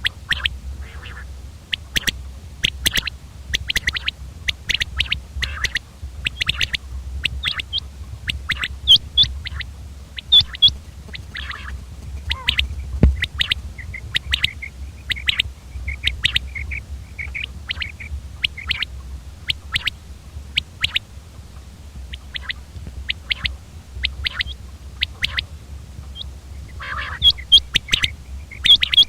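Common quail calling: many short, sharp high notes in quick, irregular series, over a steady low hum.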